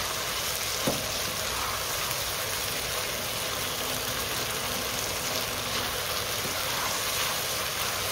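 Chicken and vegetables sizzling steadily as they are stir-fried in sauce in a nonstick wok, stirred with a silicone spatula. A short knock sounds about a second in.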